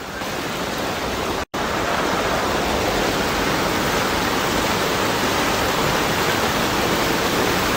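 Torrential rain pouring down on a flooded street, a steady hiss of falling and running water. It cuts out for an instant about a second and a half in, then comes back louder.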